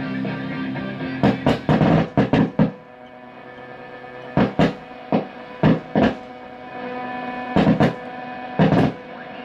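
Music with loud, irregular drum hits playing through the loudspeaker of a repaired Zenith 8-S-359 radio, a sign that the set is receiving and working.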